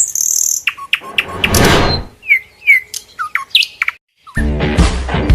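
Birds chirping in short, falling calls, with a rushing swell of noise about a second in. Music with a steady beat starts near the end.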